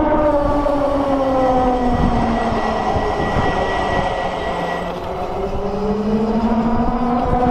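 Freego X2 electric dirt bike's motor whining under load on a hill climb, its pitch sinking as the bike slows about halfway through and then climbing again as it picks up. A rough low rumble runs underneath.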